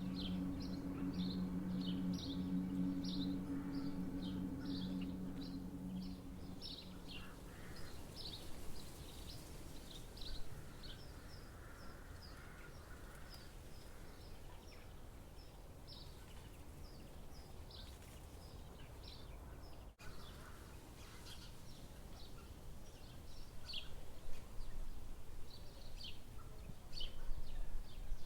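Small birds chirping over and over in short high notes above a steady forest hiss. A low, held music drone fades out in the first few seconds, and the sound drops out for an instant about two-thirds of the way through.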